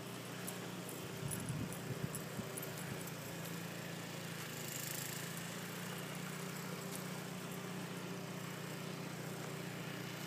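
A small engine running steadily, with a few knocks about one to three seconds in.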